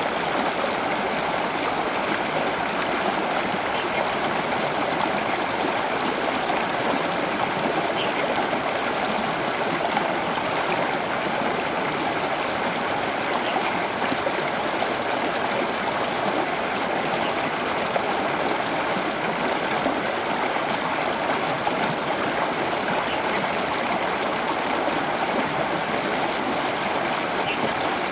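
Steady rush of running water, even and unbroken throughout, with a few faint brief high notes here and there.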